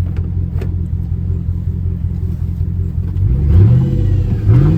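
Chevy truck V8 idling steadily while warming up, then blipped twice so it revs up and falls back quickly, both revs in the last second and a half.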